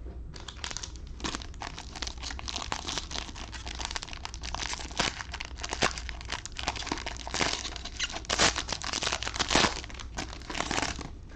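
Plastic trading-card pack wrappers crinkling and tearing open in a dense run of crackles, loudest about three quarters through.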